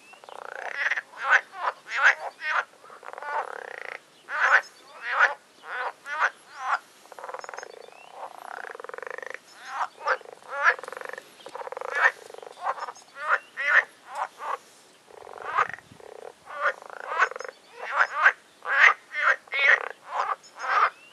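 Chorus of pond frogs croaking: many overlapping calls, each a fraction of a second long, following one another rapidly with a couple of brief lulls. Pretty noisy; the calling is taken to be spring mating season.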